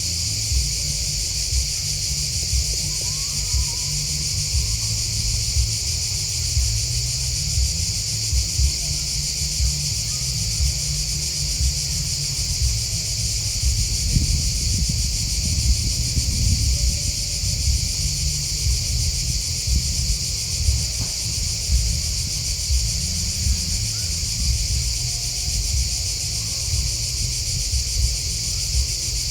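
Dense, unbroken chorus of crickets and grasshoppers singing, a high steady shrill over a constant low rumble.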